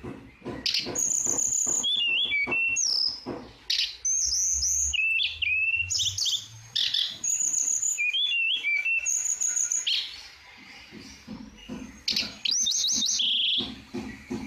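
Tledekan songbird singing vigorously: a fast, varied song of high whistled notes and chattering trills, with short clicking sounds between the phrases.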